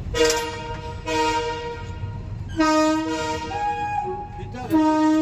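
Locomotive horns sounding in four blasts, each a chord of several steady tones: a short one at the start, another about a second in, a longer one from about two and a half seconds in whose pitch shifts partway through, and a last one near the end.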